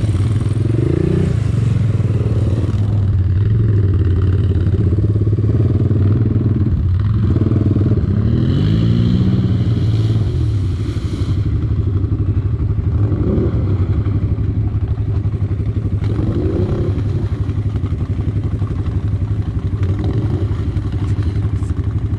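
ATV (quad bike) engine running under load, revving up and down several times.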